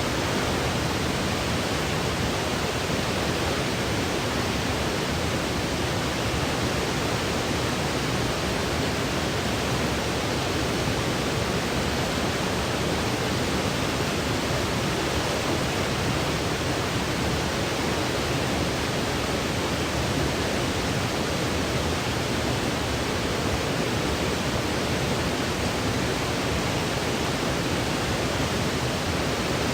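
Steady synthesized white noise for baby sleep: an even, unchanging hiss with no rhythm or breaks.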